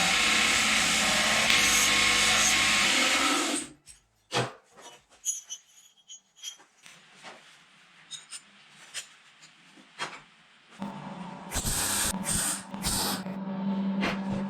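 A power tool runs loudly and stops about three and a half seconds in, followed by scattered clicks and knocks of workshop handling. Near the end a steady hum starts, with louder irregular bursts over it.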